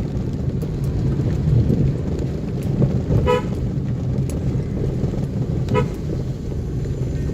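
Steady low rumble of a car's engine and road noise while driving, with two short vehicle horn toots, one about three seconds in and another near six seconds.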